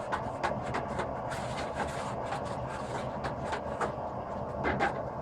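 Hammer blows on hot 5160 spring steel on an anvil, drawing out the bar, about three strikes a second, over a steady hum.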